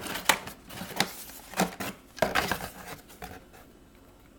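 Plastic blister packaging of a toy die-cast car being handled: a few sharp crinkles and clicks in the first two and a half seconds, then only faint room tone.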